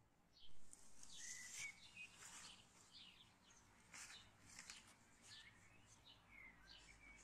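Faint chirping of small birds: many short, quick calls and little sweeping notes in a loose, uneven run.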